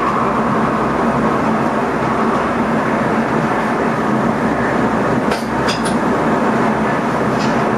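Steady running noise heard inside the driver's cab of an NS ICM (Koploper) electric intercity train: a constant rumble of wheels on rail with a steady hum underneath. A few short, sharp clicks come a little past halfway through.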